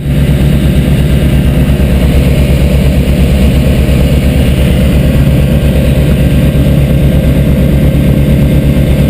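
Light aircraft's piston engine and propeller running steadily, a loud, even drone with a fast pulsing beat.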